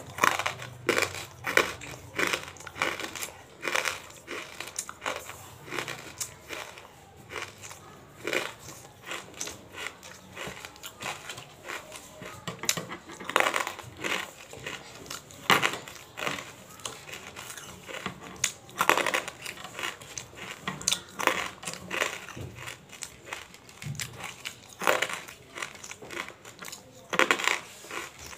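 Close-miked chewing of crunchy tabasheer crystals: a run of irregular sharp crunches and crackles as the hard pieces break between the teeth, with several louder clusters of crunches.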